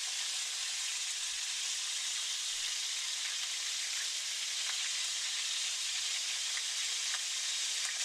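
Pork ribs browning in hot oil in a wok: a steady sizzle, with a few faint clicks.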